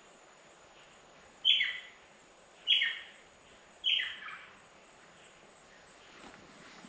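A bird calling three times, about a second apart, each call a short note that falls in pitch.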